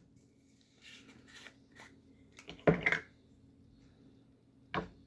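Faint scratching and dabbing of a paintbrush picking up thick gouache paint, with a sharp click near the end.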